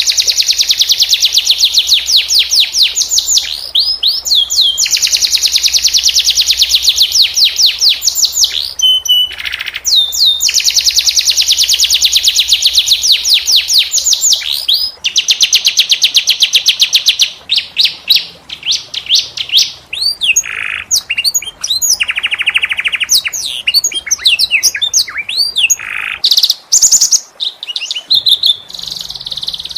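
Domestic canary singing: long, very fast rolling trills, then from about halfway a looser run of short whistles, rising and falling notes and chirps.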